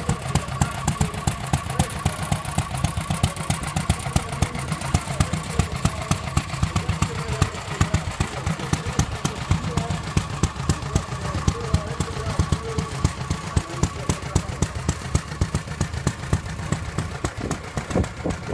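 Vintage tractor engine running steadily, with a fast, even firing beat.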